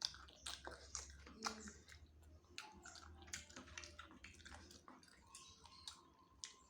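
Close-up mouth sounds of a person eating spicy chicken wings: wet chewing and lip smacks, many short irregular clicks.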